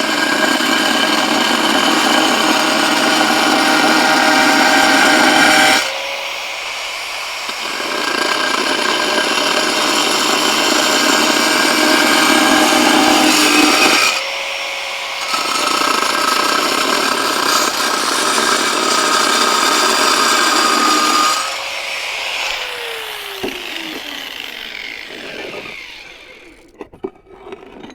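Power tool with a diamond blade cutting roof tile in three long passes, running more quietly in the short pauses between cuts. Near the end the motor winds down with a falling whine.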